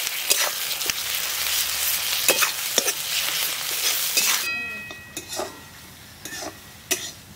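Onions, green chillies and ginger-garlic and mustard pastes sizzling loudly in the hot oil left from frying the fish while a metal spatula scrapes and stirs them around a metal karahi. About four and a half seconds in, the sizzle drops off suddenly as a thin stream of liquid is poured in, leaving a few quieter spatula scrapes.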